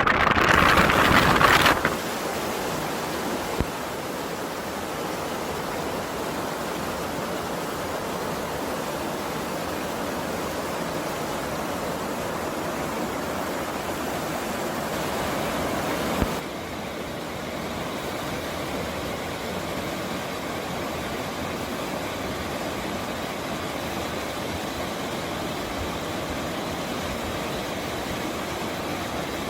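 Mountain stream rushing steadily. In the first two seconds it is buried under a louder, brighter gust of wind buffeting the microphone. About 16 seconds in the sound dips slightly and turns a little duller.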